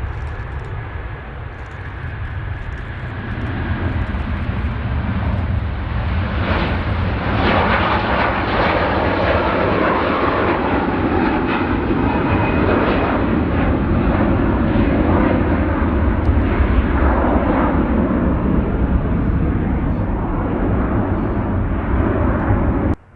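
Jet airliner engines running on a nearby runway: a loud, dense rumble that swells over the first several seconds, holds, then cuts off abruptly near the end.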